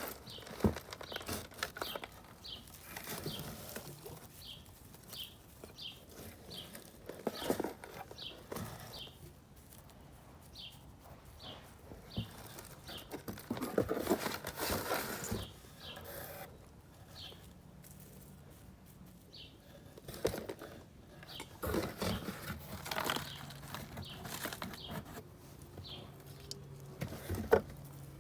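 Dry wood shavings rustling in several short bursts as they are handled and spread on soil as mulch. A bird chirps over and over in the background, about two short high chirps a second through the first half.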